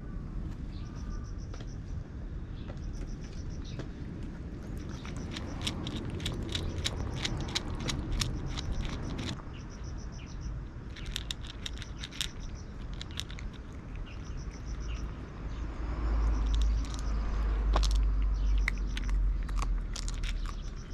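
Cat eating, crunching its food in quick bursts of sharp clicks, with a low rumble in the last few seconds and a high insect chirping repeating behind it.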